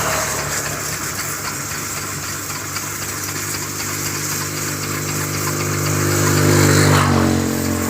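An engine running steadily under a constant hiss of spraying water. About seven seconds in, the engine's note changes and steps up in pitch.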